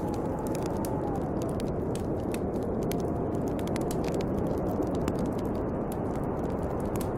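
Snowstorm wind blowing steadily, with a faint whistle that falls in pitch in the first second or so, over a crackling wood fire popping with frequent small cracks.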